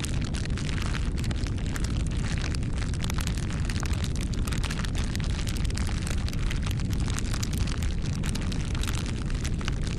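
Campfire crackling: a dense, irregular stream of small snaps and pops from burning wood over a steady low rumble of the flames.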